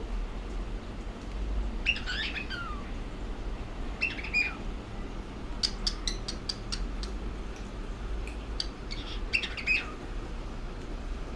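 Pet cockatiel giving short chirping calls with quick falling glides in pitch, in three brief bouts, with a run of sharp clicks in between. A steady low hum lies underneath.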